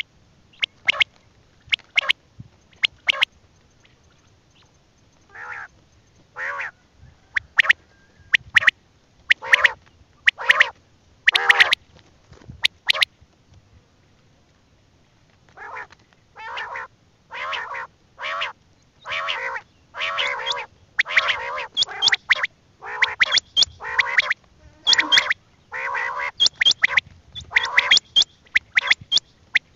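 Birds calling: many short, harsh calls in quick runs, with a pause of about two seconds midway and denser calling towards the end.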